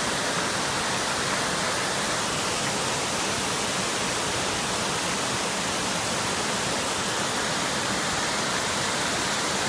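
Roadside waterfall: a steady rush of falling water with no change throughout.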